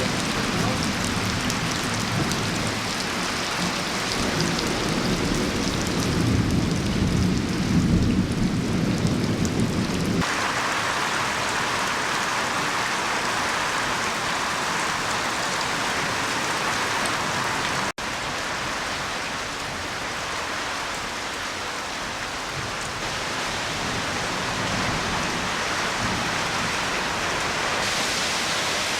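Heavy rain falling steadily in strong wind. A deep low rumble swells from about four to ten seconds in, and the sound cuts out for an instant partway through.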